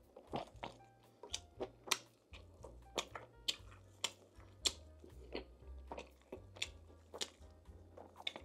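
Close-miked chewing and biting of food, with sharp mouth clicks and smacks coming irregularly about once or twice a second, over background music with a low bass line.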